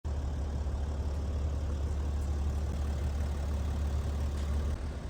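BMW M3 Competition Touring's twin-turbo straight-six idling through an AC Schnitzer rear silencer: a steady deep exhaust rumble that eases off slightly near the end.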